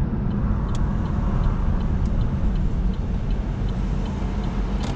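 Car wash tunnel machinery running with a steady low rumble, and a faint tick repeating about twice a second.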